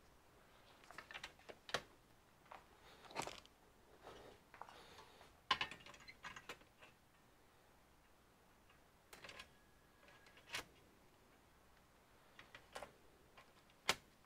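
Faint, scattered clicks and light taps of small tools, screws and plastic parts being handled while working on an all-in-one computer, in irregular clusters with a sharper click near the end.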